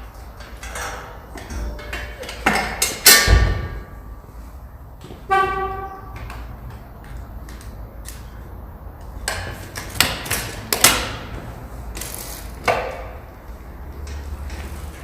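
A series of sharp clicks and knocks, with one short electronic beep about five seconds in, over a low steady hum.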